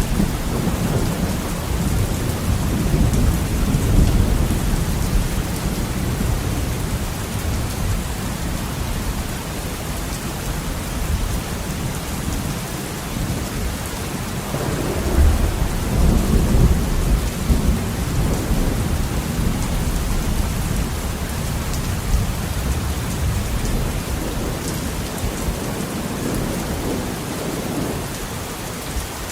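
Heavy rain falling steadily with thunder rumbling low underneath, the rumble swelling in the first few seconds and again about halfway through.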